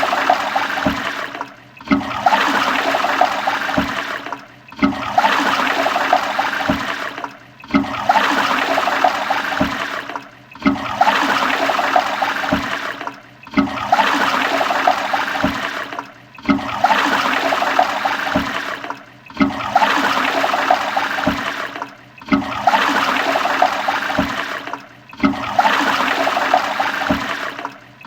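Toilet flushing, a rush of water with gurgles, the same short flush repeating about every three seconds with a brief break between each.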